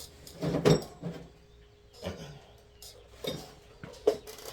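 Metal tools and engine parts being handled and set down on a bench: a few separate knocks and clinks, some with a short metallic ring.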